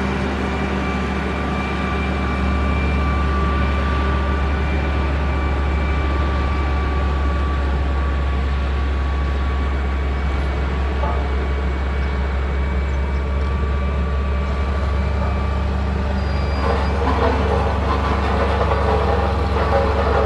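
Heavy diesel engine of a motor grader running steadily under load, with a steady whine above the engine note. From about three-quarters of the way through, a rougher, irregular scraping-like noise joins in.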